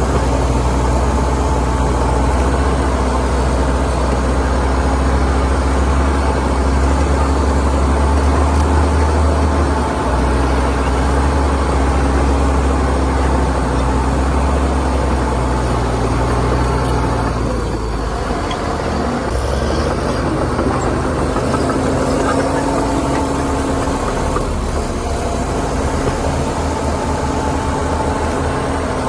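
Heavy diesel engine of earthmoving machinery running steadily with a deep hum; a little over halfway through, the engine note changes and the deepest part of the hum drops away.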